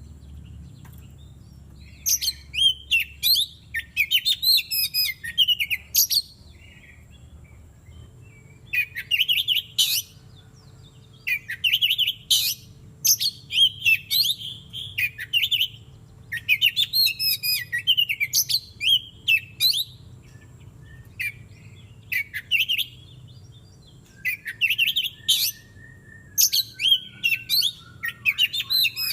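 Oriental magpie-robin (kacer) singing in repeated bursts of loud, rapidly varied whistled phrases, each a second or two long with short pauses between. A thin, slowly falling whistle comes in near the end.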